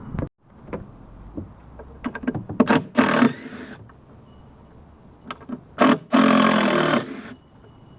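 Power drill running in two short bursts, about three seconds in and again about six seconds in, driving out screws during disassembly, with scattered clicks and knocks of tools and parts.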